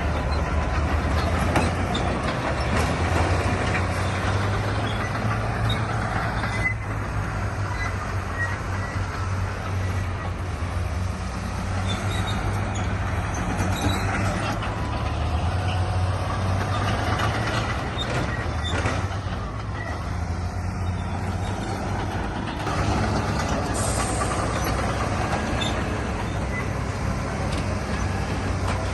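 Heavy diesel earthmoving machinery running steadily, with a deep engine drone and a few knocks over it.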